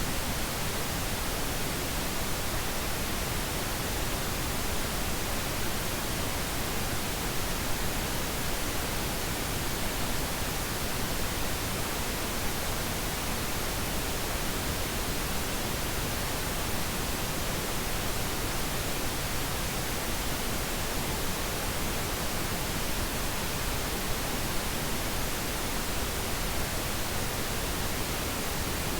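Generated pink noise: a steady, even hiss spread across all pitches, unchanging throughout.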